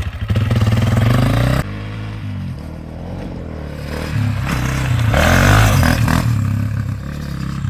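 Dirt bike engine running and revving, its pitch rising and falling. The sound drops off suddenly about a second and a half in, then swells louder again past the midpoint.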